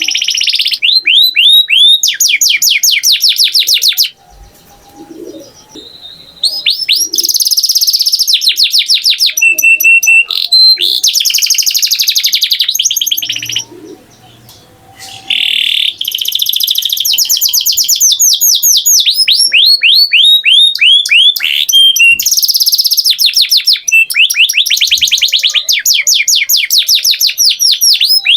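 Canary singing: fast trills of repeated downward-sweeping notes in long phrases, with two short pauses, about four seconds in and again around the middle.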